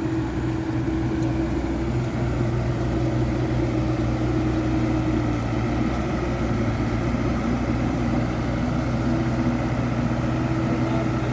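Excavator's diesel engine running steadily, with a held hydraulic whine that shifts down a little in pitch about halfway through.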